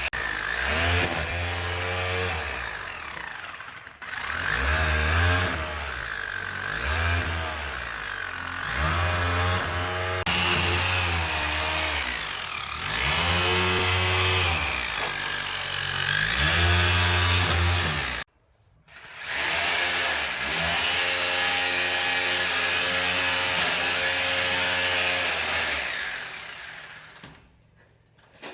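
Electric power drill running, its motor pitch dipping and recovering every couple of seconds as the bit bites in under load. It stops abruptly about two-thirds of the way through, starts again a second later, and winds down near the end.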